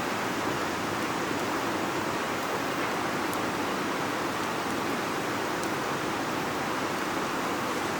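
Steady rushing of flowing river water, an even hiss with no let-up.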